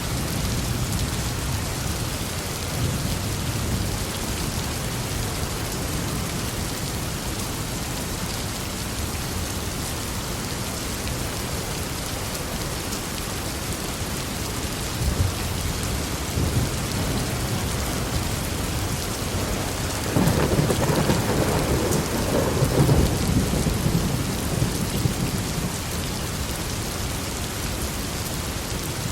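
Steady heavy rain falling, with thunder rumbling low and distant near the start and a louder roll of thunder about two-thirds of the way through.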